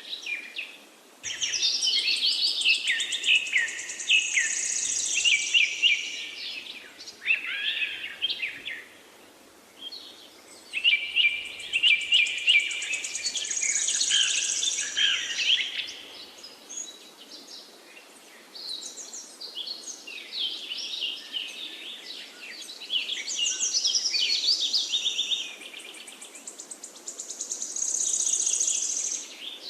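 Songbird song: long, varied phrases of rapid warbles and trills, in three main stretches with short pauses between, over a faint steady background hiss.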